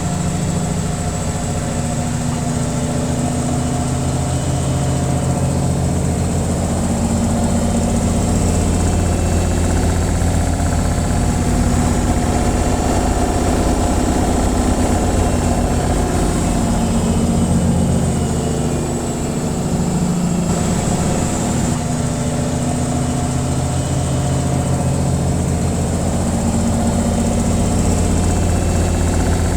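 Washing machine on its spin cycle: a steady low hum with vibration, its tones shifting slightly, and a brief dip in level about two-thirds of the way through.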